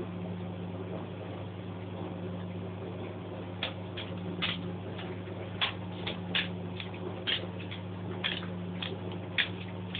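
Small Stirling engine starting up: a steady low hum, then from about a third of the way in, sharp ticks about twice a second that come a little quicker towards the end as the engine gets going.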